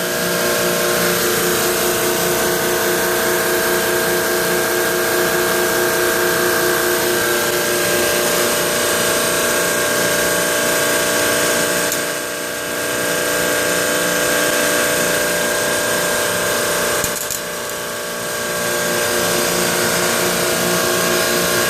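Carrier reciprocating refrigeration compressor running steadily under pump-down, with the liquid line solenoid closed to draw the refrigerant and migrated oil back to the compressor. The steady hum dips briefly twice.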